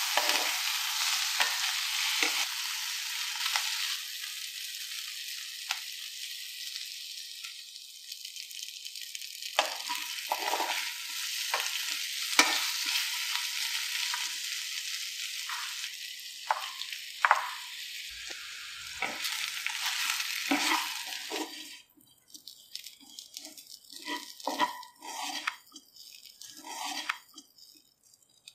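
Sliced ivy gourd sizzling in oil in a ceramic-coated kadai while a wooden spatula stirs it, knocking and scraping against the pan. About three quarters of the way in, the sizzle cuts off suddenly, and only the spatula stirring the spice-coated pieces is left.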